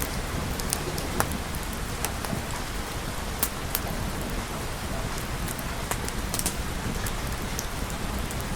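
Steady rain falling, a dense even hiss with scattered sharp ticks of individual drops.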